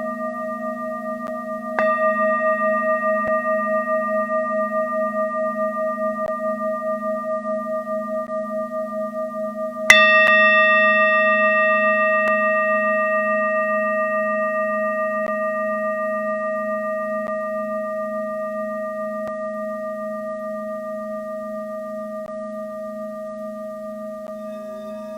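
Singing bowls ringing with a long sustain and a pulsing waver. One is struck about two seconds in and another, harder, about ten seconds in, and the ringing slowly fades away. A soft new tone joins near the end.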